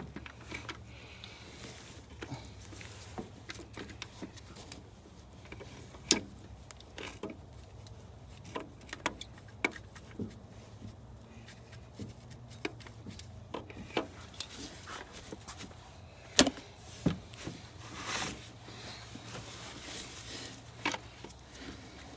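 Scattered clicks and knocks of hand tools and parts being handled while fitting an alternator under a car's hood, with two sharper knocks and a brief rasping scrape, over a steady low hum.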